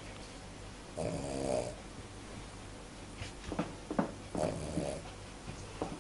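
Cavalier King Charles Spaniel snoring in its sleep. There are two buzzy snores, one about a second in and another just past the middle, with a few short clicking breaths between them.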